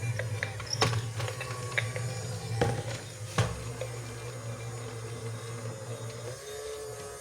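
Small motor of a battery-powered toy robot humming steadily, with a few sharp clicks; the hum stops about six seconds in and a steady electronic tone starts.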